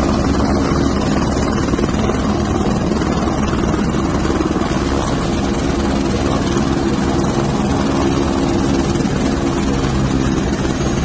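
Helicopter running close by: steady, loud rotor and engine noise.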